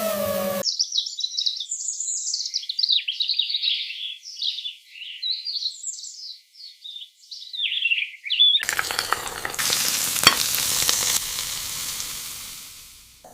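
Birds chirping in irregular high calls for about eight seconds, then a cut to food sizzling steadily as it fries, with one sharp click about ten seconds in before the sizzle fades near the end.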